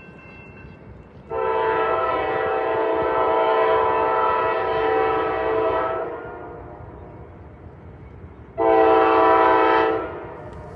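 Locomotive air horn sounding a chord: one long blast about a second in, lasting about four and a half seconds, then a shorter blast of about a second and a half near the end, over a low rumble.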